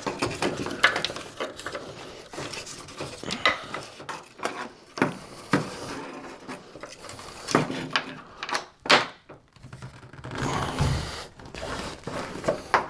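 Irregular knocks, clicks and rubbing of wooden sauna panels and wiring being handled as cable plugs are fed up through holes in the roof panel, with a longer scrape near the end.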